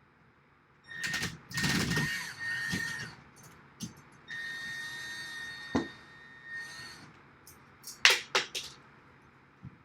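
Power drill running in two bursts, its motor giving a steady whine, the first burst louder and the second longer. Several sharp clacks follow near the end.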